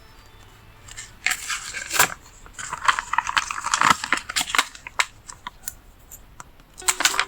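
Sticker sheets and paper being handled: crinkling and rustling in two longer spells, then scattered sharp clicks and a short burst of crinkling near the end.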